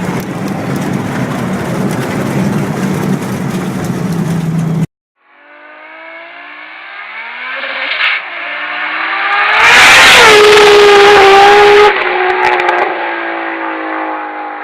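High-revving car engines in two back-to-back clips. The first engine runs loud at speed and cuts off abruptly about five seconds in. After a brief silence a second engine revs up, rising in pitch and loudness to a very loud, distorted peak held for about two seconds, then easing off.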